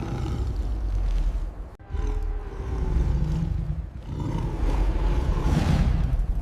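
Big-cat roars and growls over a deep rumble, with a short break a little under two seconds in before the roaring picks up again.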